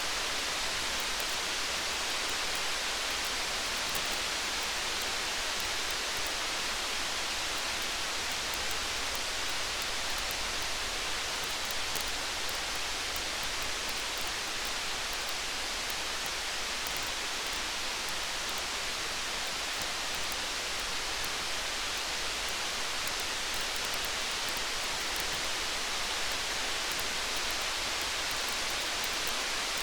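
Steady hiss of rain, with a campfire's faint small crackles scattered through it.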